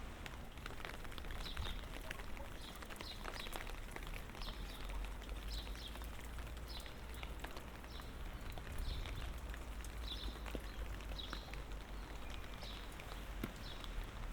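Light rain pattering, with scattered sharp drop clicks and footsteps on wet pavement, plus a short high chirp repeating about once a second.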